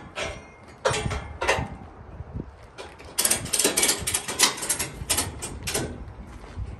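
Tow-truck rigging being handled: metal clanking and rattling in quick runs of clicks, a short burst about a second in and a longer, busier run from about three to six seconds in.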